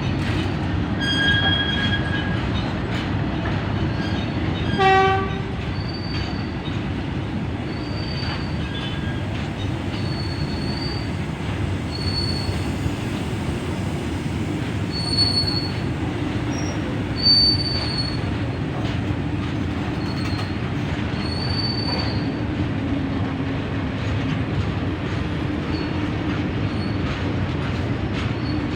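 Train hauled by two locomotives running steadily on the track, with a short horn blast about five seconds in. Repeated short, high wheel squeals come through the middle.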